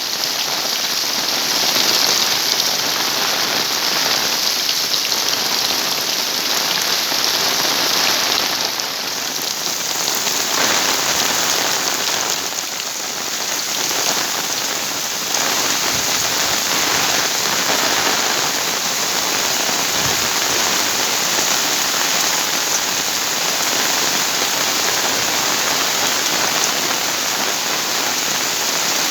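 Heavy tropical rain pouring steadily, a dense hiss of drops hitting surfaces that swells and eases slightly without letting up.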